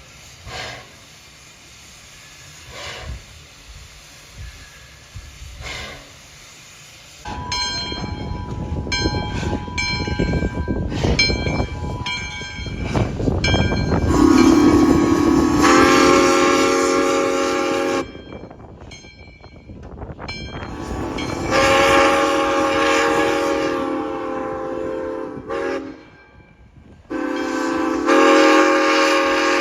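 Nevada Northern Railway No. 93, a 1909 ALCO 2-8-0 steam locomotive, sounding its chime steam whistle: several short toots over a loud rushing noise, then three long blasts with short breaks between them. The first several seconds hold only a few faint puffs.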